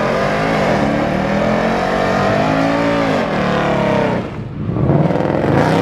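Car engine revving hard, its pitch held high and then sagging at about three seconds. It falls off after about four seconds and climbs again near the end.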